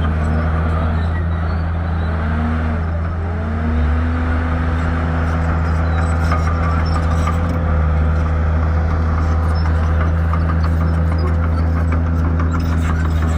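Shantui crawler bulldozer's diesel engine running under load, its pitch dipping and rising a few times in the first three seconds and then holding steady, with light clanking through the second half.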